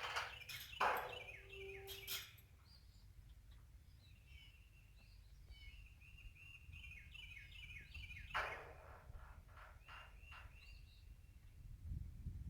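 Birds chirping in a series of short repeated calls. Some rustling knocks come in the first two seconds and once more past the middle.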